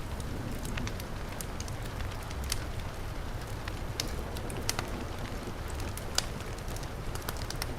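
A crackling wood fire, with sharp irregular pops, over the steady rush and low rumble of heavy rain.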